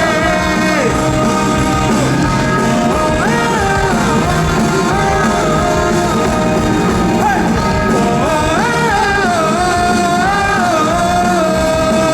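Live rock band playing the outro of a song, with drums, bass and guitars. A high wordless melody line holds notes and slides between them over the band.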